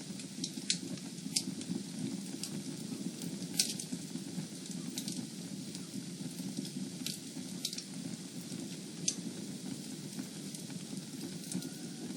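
Fire burning in a fireplace: a steady low rush of flame with irregular sharp crackles and pops, the loudest about three and a half seconds in.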